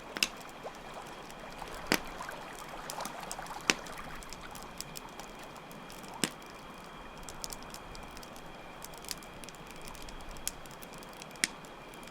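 Campfire crackling, with a handful of sharp pops every few seconds and many small ticks, over the steady sound of running water and crickets chirping in a continuous high trill.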